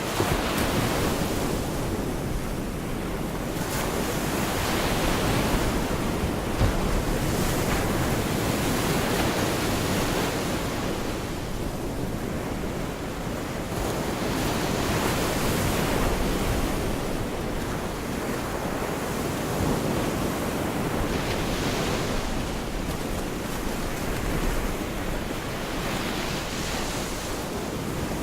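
Gulf of Mexico surf washing on the beach, the noise swelling and easing every few seconds as waves break, with wind buffeting the microphone.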